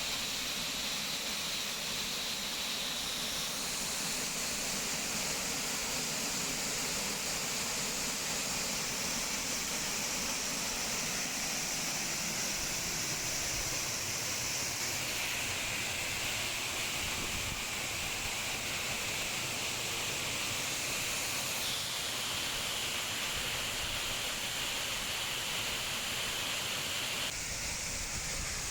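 Waterfall in full flow: a steady rush of falling water, its tone shifting abruptly a few times.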